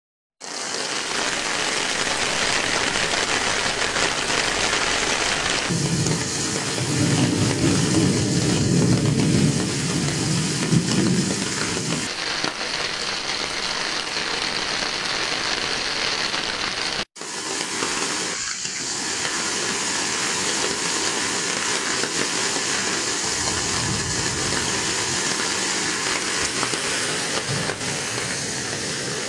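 Heavy typhoon rain pouring down with water rushing, a steady hissing roar. It is fuller and deeper for several seconds early on and briefly cuts out about two-thirds of the way through.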